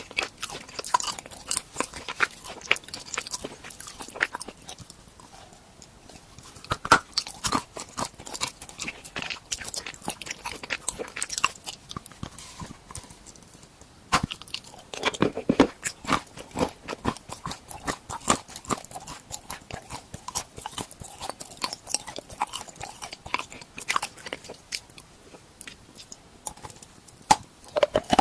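Close crunching and chewing of edible tool-shaped snacks: dense, sharp crackles as each bite is broken up, with short lulls about five seconds in and again around thirteen seconds.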